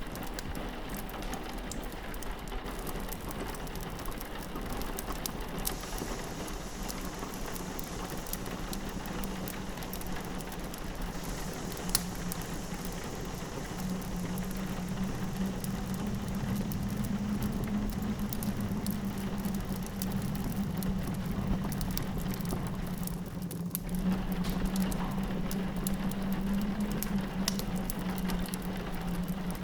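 Rain pattering on a window, mixed with a crackling fireplace whose sharp crackles are scattered throughout. A low steady hum comes up about halfway through.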